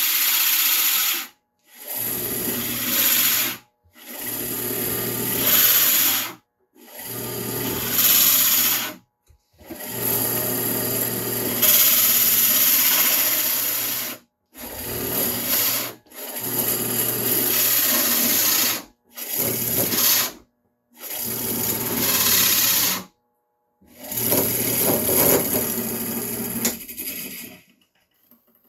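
A power drill boring into wood in about eleven short runs of one to four seconds each, with a steady motor hum under the cutting hiss. Each run stops abruptly into silence.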